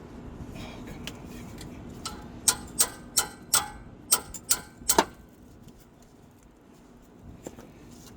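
Sharp metallic clinks of hand tools on the car's suspension hardware: about seven strikes, roughly three a second, over a steady low hum that fades about five seconds in.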